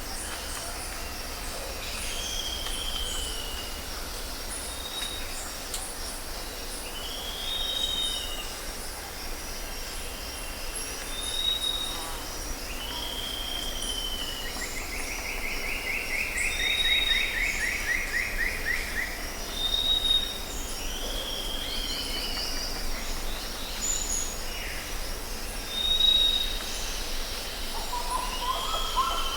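Outdoor birdsong: several birds repeating short high whistles and arched calls, with a rapid trill about halfway through. A steady high chirring and a low rumble run underneath.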